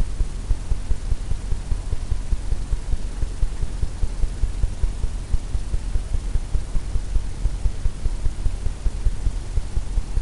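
Low, rapid thumping rumble of paint being pulled across a stretched canvas in quick repeated strokes, the taut canvas drumming with each stroke, several pulses a second.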